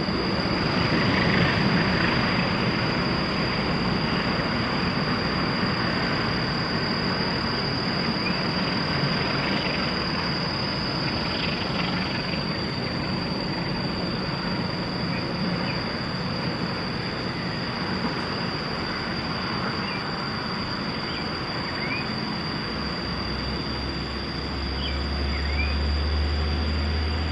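Rumble and rushing clatter of a long passenger train running past at a distance, with a low engine drone swelling near the end.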